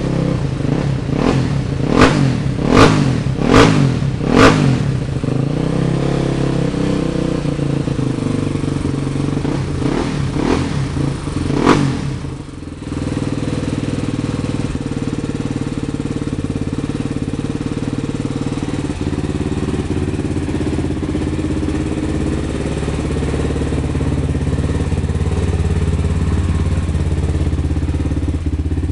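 Honda XR250 Tornado motorcycle's single-cylinder engine, bored out to 326cc, running. It is blipped four times in quick succession about two seconds in, revved again briefly around ten to twelve seconds, then settles to a steady idle.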